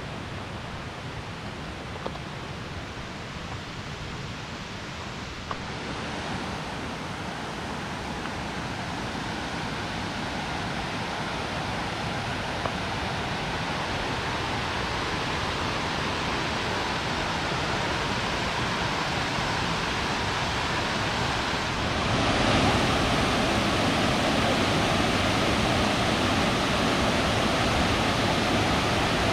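Steady rush of falling water from Indian Creek Falls, growing gradually louder and stepping up sharply about three-quarters of the way through as the falls come closer.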